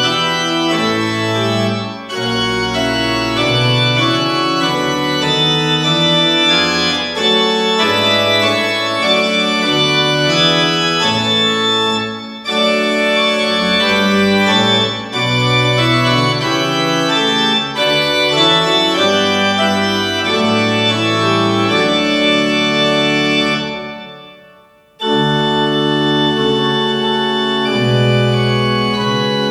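Organ music played in slow, held chords over a moving bass line. It fades away about 24 seconds in and starts again a second later.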